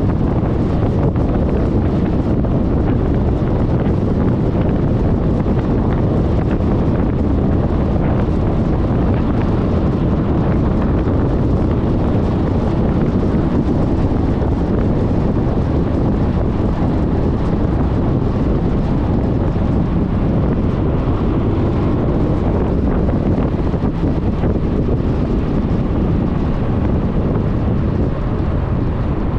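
Steady wind rush on a GoPro microphone, mixed with engine and road noise from a Suzuki Burgman 400 scooter under way. It eases a little near the end.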